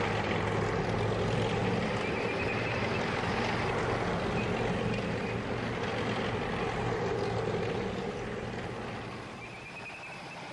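Heavy engine running steadily, a dense mechanical rumble with a constant low hum, easing off somewhat near the end.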